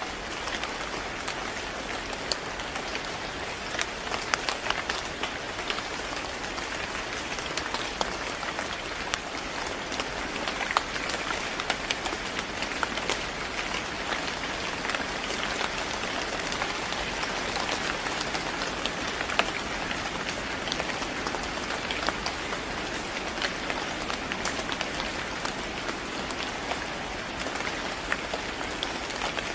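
Steady rain falling on a hard surface, a dense hiss with many separate drops pattering through it.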